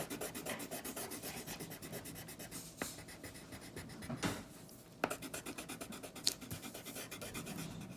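Pencil scribbling on paper in fast, even back-and-forth strokes, about nine a second, to fill in a shape with colour. The strokes pause briefly a little past halfway, then resume.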